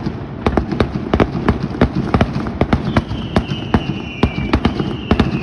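Fireworks going off in a rapid, irregular string of sharp bangs and pops, several a second. A high whistling tone joins about three seconds in.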